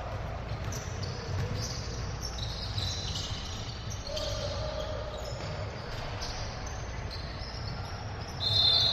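Basketball game play in a gym: the ball bouncing and sneakers squeaking on the court in short high chirps, with a louder shrill tone starting just before the end.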